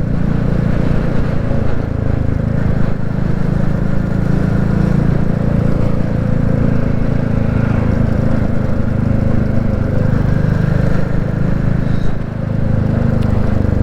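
Royal Enfield Classic 350 single-cylinder engine running steadily while the motorcycle is ridden, heard from on the bike. The sound dips briefly about twelve seconds in, as the throttle is eased.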